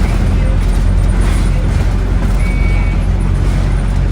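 Scania N270UD OmniCity double-decker bus's diesel engine running steadily as the bus drives, with a brief faint high whistle about two and a half seconds in.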